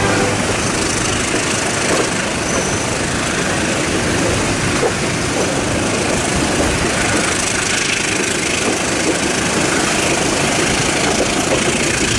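Steady engine rumble and hiss of a train, even throughout with a few faint knocks.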